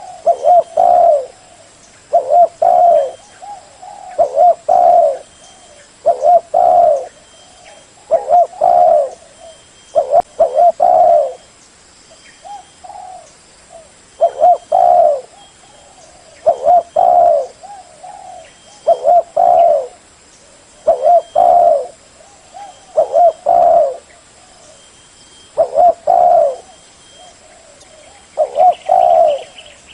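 Spotted dove cooing over and over: a low phrase of a few notes, repeated roughly every two seconds.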